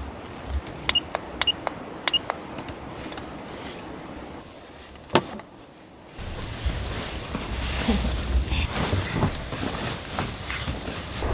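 A few light clicking taps with a brief ring and one louder knock, then, after about six seconds, the steady rush of wind.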